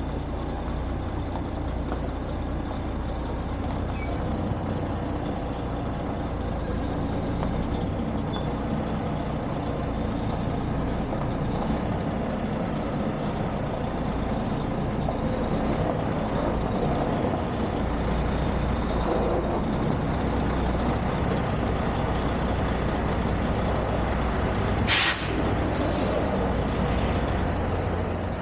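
Truck engine running steadily, a low rumble throughout, with one short, sharp hiss of air near the end.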